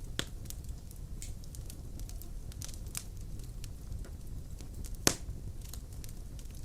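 Wood fire crackling, with scattered sharp pops over a low steady rumble of the flames, and one loud pop about five seconds in.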